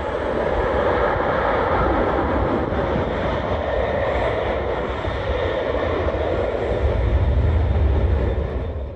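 Jet airliner passing on landing approach: a steady roaring rush with a deep rumble that swells about seven seconds in.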